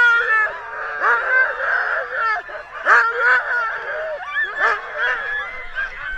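A pack of sled dogs yelping, barking and howling together, with many cries overlapping.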